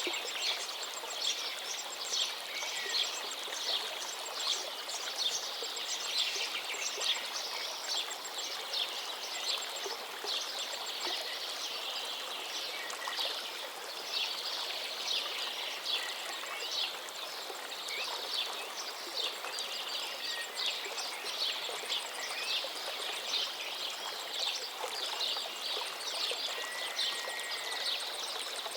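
A river flowing with a steady rush, under a busy chorus of birds giving many quick high chirps and a few soft whistled notes.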